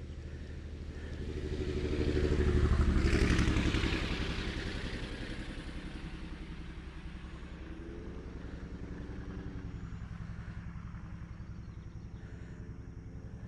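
A motor vehicle passes on a nearby road, rising to a peak about three seconds in and then fading, over a steady low drone. A fainter engine sound bends in pitch near the middle.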